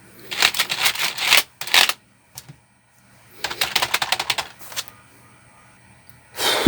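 Typing on a Xenics K3 keyboard: two quick flurries of key clicks, then a louder thump near the end.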